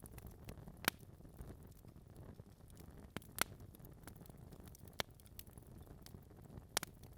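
Wood fire burning in a fireplace: logs crackling, with a few sharp pops every second or two over a low, steady rumble.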